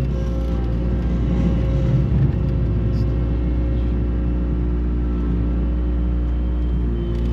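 Engine of a farm feeding vehicle running steadily: a low, even drone with a few steady tones over it.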